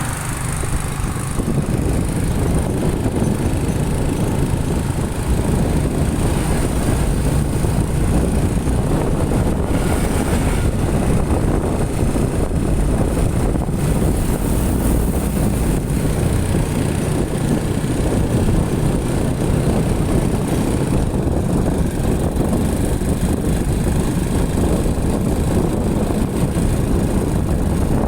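Motorcycle running steadily under way, its engine mixed with a steady rush of road and wind noise.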